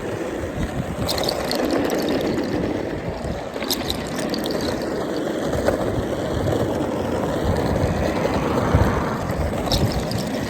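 Skateboard wheels rolling over pavement: a steady rumble, with a few sharp clicks along the way.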